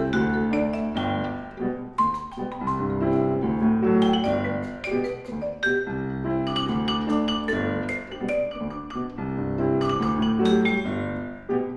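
Live chamber music: a vibraphone with piano, a stream of quick mallet-struck notes ringing over sustained lower notes.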